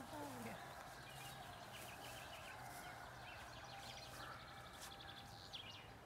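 Faint birdsong: small birds giving short chirps scattered through, over a quiet background.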